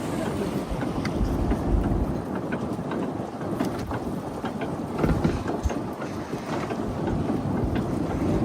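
Steady low rumble of a fishing boat's engine, with scattered knocks and clatter.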